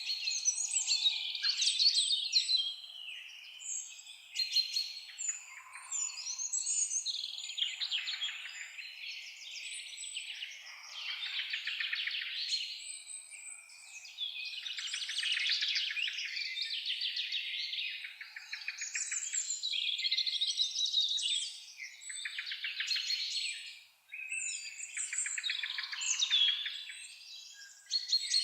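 Several songbirds singing and chirping at once, their song phrases overlapping and swelling in waves every few seconds, with no low sounds beneath.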